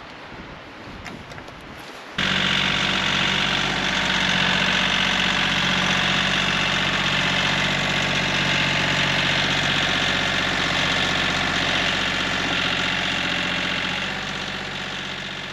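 Tractor engine running steadily. It cuts in abruptly about two seconds in, after a quiet stretch, and is a little quieter near the end.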